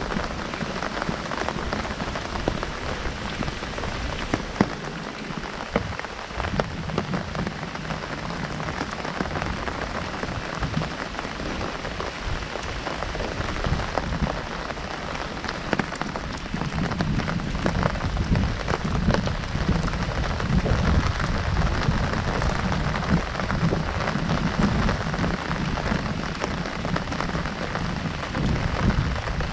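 Heavy rain drumming on an umbrella overhead, a dense patter of countless drops. The low drumming grows heavier about halfway through.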